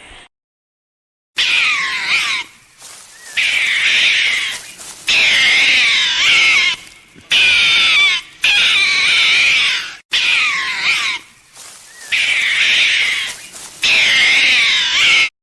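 Loud, high-pitched animal calls, several voices wavering up and down over each other, in about eight bursts of one to two seconds with short gaps between.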